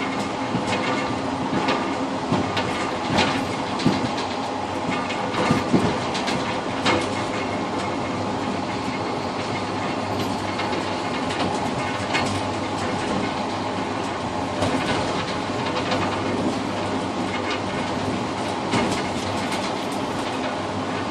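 Passenger train running along the line, heard from inside the tail car's cab vestibule: a steady rumble with wheels clacking over rail joints and a run of sharper knocks in the first few seconds.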